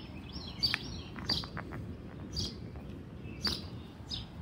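Birds chirping: several short, high chirps spread a second or so apart over a steady low background noise.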